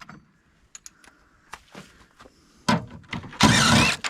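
Metal parts of an air conditioner being worked apart with hand tools: a few light clicks, a sharp clunk near three seconds in, then a loud noisy burst lasting about half a second.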